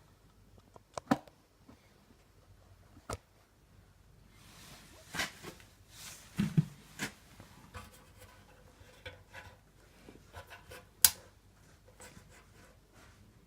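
Scattered clicks, taps and rubbing from hand-handled dent-repair tools and parts, with a stretch of rustling in the middle and a sharp click about eleven seconds in.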